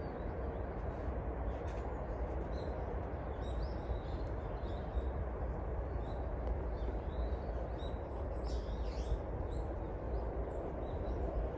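Small birds chirping in short, scattered high calls, busiest about eight seconds in, over a steady low background rumble.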